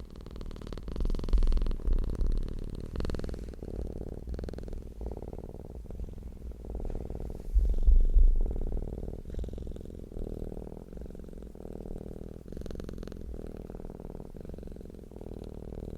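Domestic cat purring close up, a continuous low rumble of rapid pulses that swells louder about a second in and again around eight seconds.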